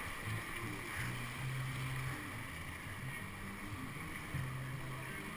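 Steady rush of whitewater in a man-made whitewater channel, with a low rumble.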